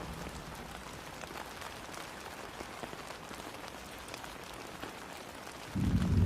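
Steady rain falling, an even hiss with scattered drops ticking. Near the end a sudden loud, deep rumble of thunder sets in and becomes the loudest sound.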